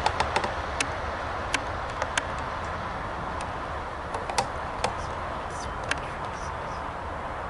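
Amtrak passenger train receding down the track: a steady rumble and hiss, with scattered sharp clicks at irregular intervals, several close together in the first second.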